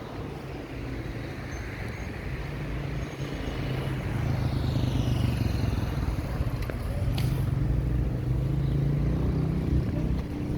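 Street traffic: a motor vehicle's engine running close by with a steady low hum, getting louder about four seconds in and staying loud, over the general noise of the road.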